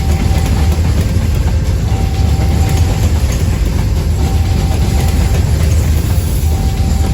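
Coal freight train passing, a heavy, steady low rumble of the wagons rolling, with a short steady tone that comes back about every two seconds.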